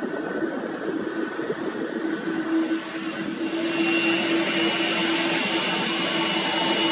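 Jet airliner's engines running, a steady rushing noise with a held low tone; a high steady tone joins about halfway through as it grows slightly louder.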